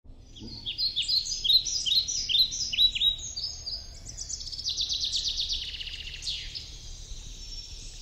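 Birds singing: a run of quick chirps that fall in pitch, then a fast trill and sweeping notes in the second half.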